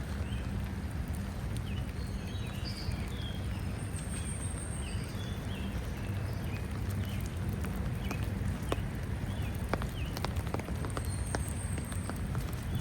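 Birds chirping in short, scattered calls over a low steady rumble, with a few sharp taps and drips from the rain, mostly in the second half.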